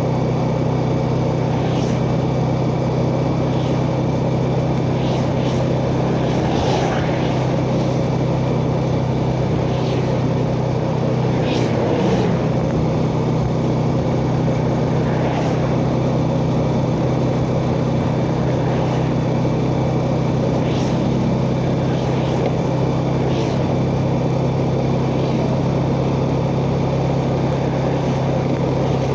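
Yamaha Jupiter Z underbone motorcycle's single-cylinder four-stroke engine running at a steady cruising speed, with wind and road rush on the rider's chest-mounted microphone.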